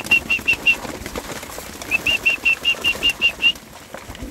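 A bird calling in two rapid runs of short, high peeping notes, about six a second, with a pause of about a second between the runs.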